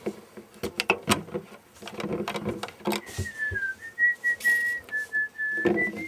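A person whistling a short tune, a thin single tone stepping between a few held notes. It comes after a few seconds of sharp clicks and clatter from items being handled.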